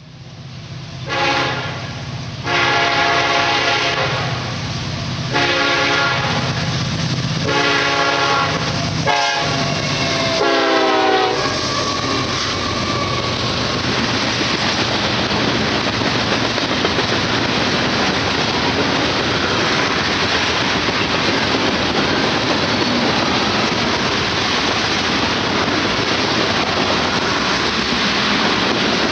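Freight train led by an EMD SD70M-2 locomotive sounding its air horn in a series of blasts, the pitch bending down on the last one as the locomotive passes. From about twelve seconds in, there is the steady rumble and clickety-clack of tank cars rolling by.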